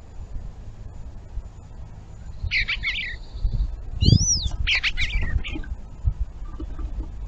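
A bird calling: a quick run of chirps about two and a half seconds in, then a high whistle that rises and falls followed by more chirps around four to five seconds in, over a steady low rumble.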